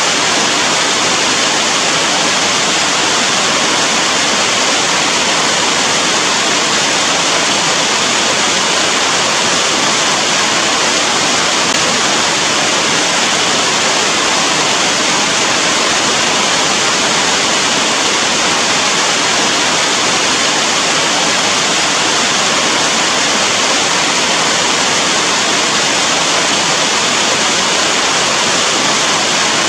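Rain falling steadily: an even, dense hiss with no single drops, thunder or other events standing out.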